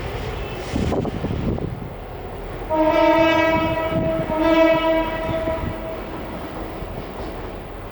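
Diesel locomotive horn sounding two blasts, a longer one about three seconds in and a second shortly after, over the running of BRM class diesel locomotives passing light engine.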